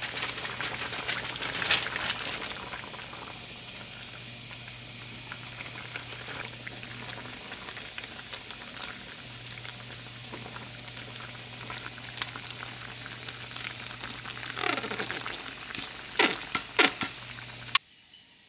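Food cooking on a stove, with a steady bubbling and sizzling over a low, even electrical hum. A few sharp clatters come near the end, and then the sound cuts off suddenly.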